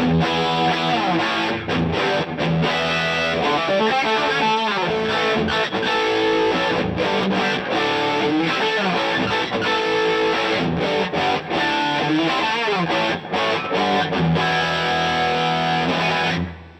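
Electric guitar played through a DVII guitar amplifier with a distorted tone, notes sliding and bending in pitch; the sound cuts off abruptly near the end.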